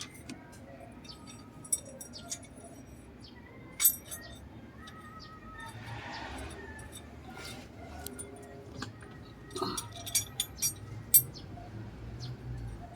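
Metal tools and engine parts clinking and clicking as they are handled, in scattered sharp knocks with a cluster of louder ones near the end.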